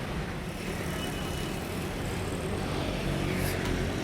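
Steady low rumble of road traffic and vehicle engines, with a brief faint click near the end.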